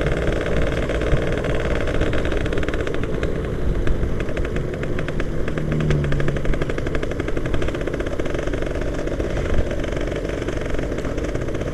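Yamaha F1ZR's two-stroke single-cylinder engine running steadily while the bike is ridden, its fast, even firing pulses heard as a rattly buzz under road and wind noise.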